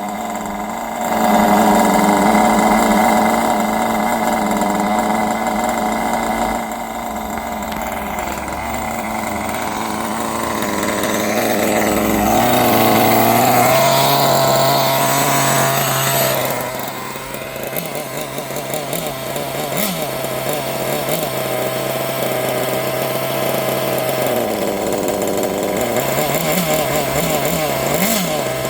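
Small glow-fuel (nitro) engine of a Kyosho Neo 4.0 RC engine buggy running, its pitch shifting with the throttle. It climbs higher in the middle and gives several short quick revs near the end.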